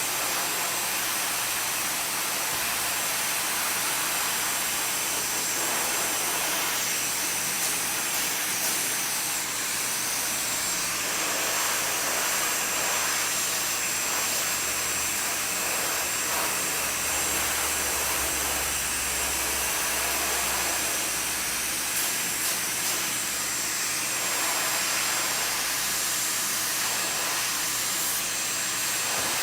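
Hair dryer blowing steadily: an even rush of air with a faint high motor whine.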